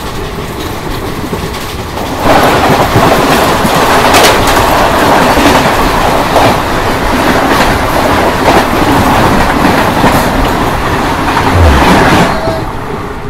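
Express train running at speed, wheels clattering over the rail joints in a loud, continuous roar; it gets louder about two seconds in and eases off near the end.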